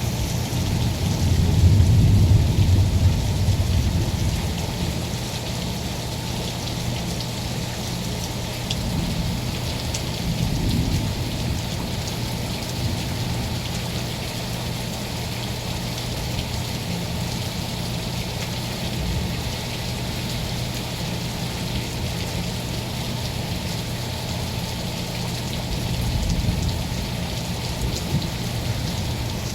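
Steady rain falling, with thunder rumbling low. The loudest roll comes about a second or two in, and fainter rumbles follow near ten seconds and near the end.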